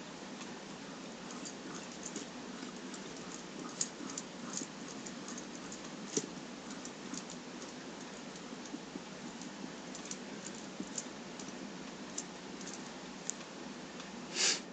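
Light irregular clicking and ticking from the model steam boat's variable pitch propeller mechanism over a steady hiss, with one louder, brief rushing burst near the end.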